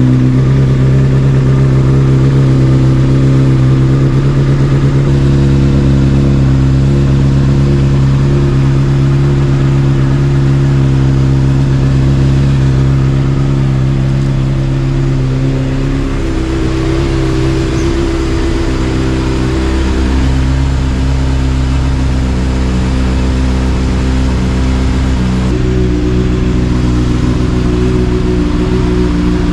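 Honda CBR600RR's inline four-cylinder engine with an Akrapovic exhaust idling steadily just after start-up, its tone shifting slightly about halfway through and again near the end.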